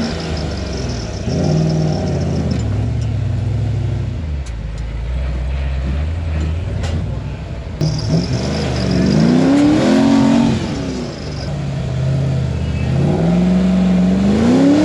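Rock-crawling truck's engine running at low crawl speed, then revved up and back down twice in the second half as it works up a rock obstacle.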